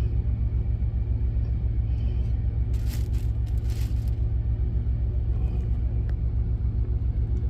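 Semi truck's diesel engine idling: a steady low rumble with an even pulse. Two brief rustles come about three and four seconds in.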